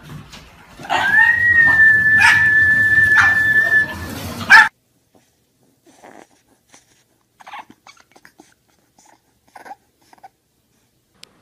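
A dog gives one long, high, steady howl-like whine lasting about three seconds, which cuts off abruptly. After it, a bulldog puppy makes a few faint, short whimpers.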